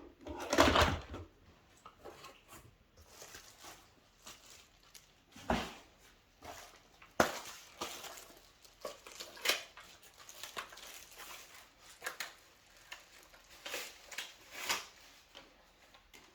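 Plastic vacuum-cleaner attachments and their packaging being handled: scattered clicks and knocks with rustling, and a few sharper knocks spread through.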